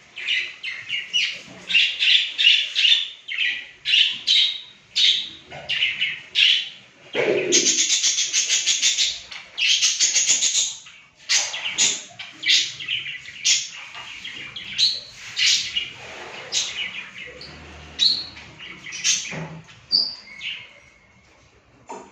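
A group of small cage birds chirping and chattering: many short, high chirps one after another, thickening into two denser runs of continuous chatter about a third of the way in, then thinning out toward the end.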